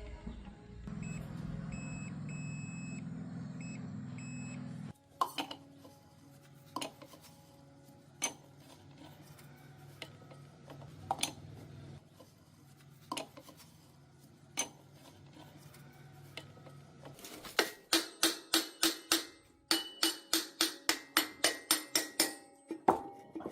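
Metal being struck in a workshop: scattered sharp metallic knocks every second or two, then rapid regular strikes, about three a second, in the last six seconds. Before the knocks, a low steady hum runs for about five seconds. Music plays faintly underneath.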